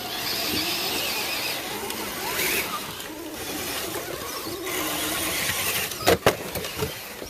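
Small electric motor and geartrain of a radio-controlled scale truck whining as it crawls, the pitch wavering with the throttle. Two sharp knocks come about six seconds in.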